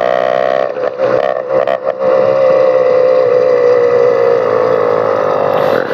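Motorized bicycle's small two-stroke engine running loud through an open exhaust pipe with no muffler. The throttle is choppy with short dips in the first two seconds, then the engine holds a steady buzz whose pitch sags slightly.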